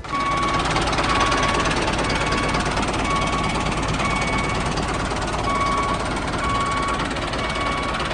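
Small motor and gears of a DIY mini tractor running with a steady rattling buzz, with faint short beeping tones now and then.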